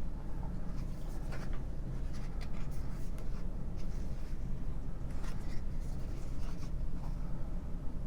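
Pages of a thick, matte-finish book being turned gently by hand: soft, scattered paper rustles and slides, over a steady low hum.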